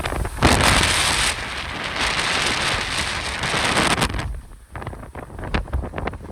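Violent Santa Ana wind gusting, with a loud, rushing hiss and wind rumble on the microphone. The gust eases suddenly about four seconds in, leaving low buffeting and scattered crackles.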